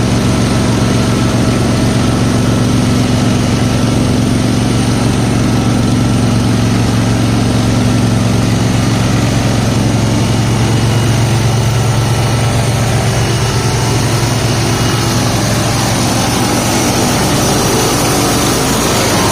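Garden tractor engine running steadily at an even speed, with a slight wavering in its tone about two-thirds of the way through.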